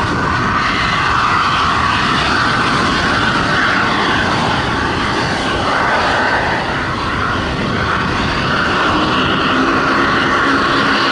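Turboprop aircraft engines running loud and steady, with a strong high rushing band; a lower steady drone joins in near the end.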